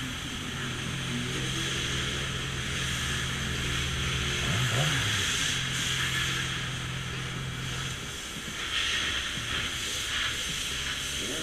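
Motorcycle engine running at a steady note under a constant hiss of wind and road noise. About halfway, the pitch briefly rises and falls, and a little after eight seconds the steady note drops away.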